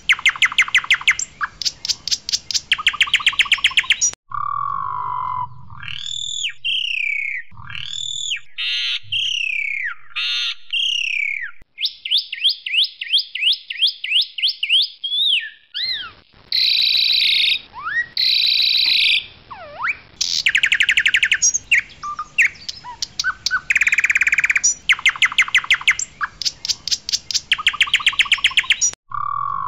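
Asian pied starling (jalak suren) singing loudly. Its varied song mixes fast rattling trills, rising and falling whistles and squeaky notes, and the phrases break off abruptly.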